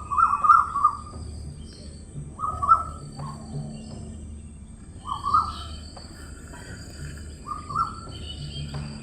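A bird calling repeatedly, a short burst of calls about every two and a half seconds, four times, over a steady low background rumble.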